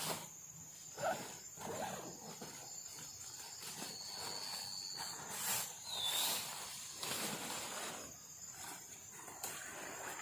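Night forest sounds: a steady high insect drone, with scattered rustles and knocks of someone moving or handling gear, and a brief high call about six seconds in.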